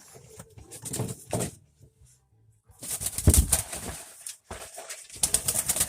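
A bird flapping its wings in bursts while being handled, with scuffling. There is a quick run of wingbeats near the end.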